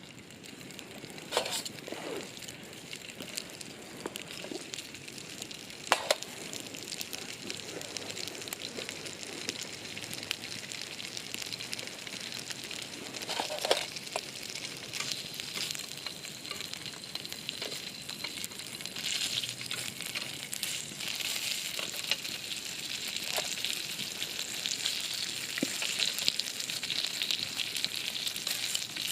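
Food sizzling as it fries, the sizzle growing louder over the second half, with a few sharp knocks.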